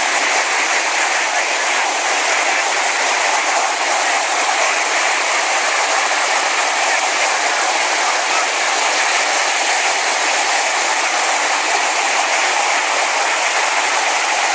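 Helicopter noise: a loud, steady rushing sound with no distinct beat and no change in level.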